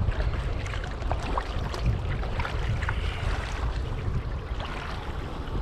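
Water splashing and lapping around a touring kayak as it is paddled, with small scattered splashes, over wind rumbling on the microphone.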